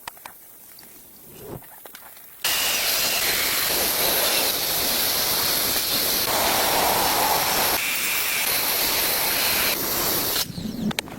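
A loud, steady hiss that starts abruptly a couple of seconds in and cuts off sharply near the end, after a few faint clicks.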